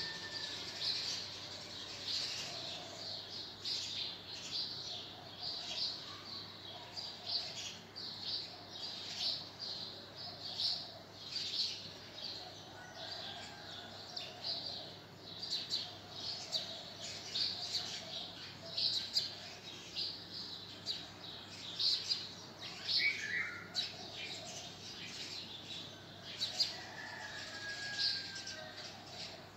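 Birds chirping continuously, many short high calls with an occasional sliding call.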